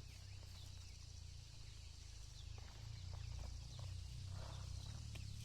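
Faint outdoor background: high chirping calls over a steady low rumble, with a few light clicks.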